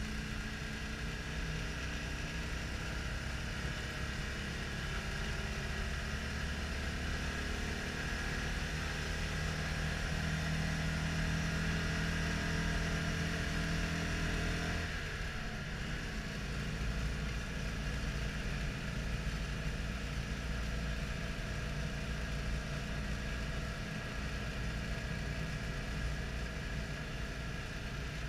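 Citroën Dyane 6's air-cooled 602 cc flat-twin engine and road noise heard from inside the cabin while driving. The engine note climbs slowly and grows a little louder, then drops abruptly about halfway through and carries on at a lower pitch.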